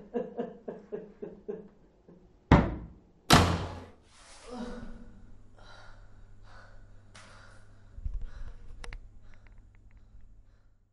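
Two loud thuds a little under a second apart, then a low steady hum with a few fainter knocks.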